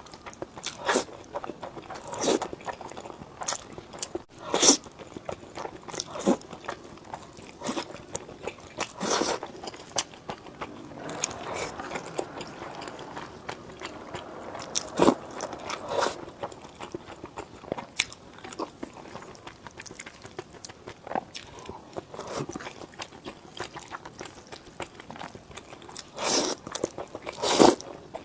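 Close-miked eating: someone biting into and chewing crunchy food, a string of irregular crunches, some much louder than others.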